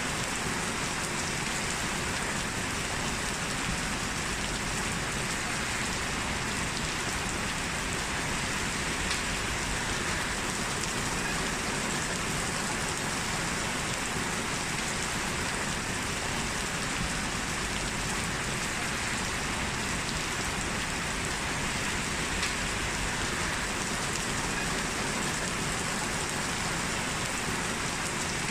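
Steady heavy rain falling on a surface, an even, unbroken hiss with a few faint drop ticks.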